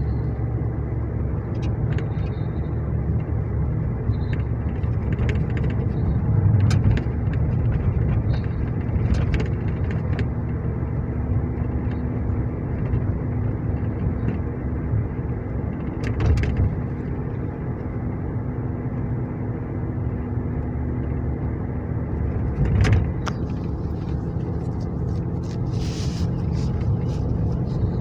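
Police car's engine and road rumble heard from inside the cabin while driving, steady throughout, with a few faint clicks.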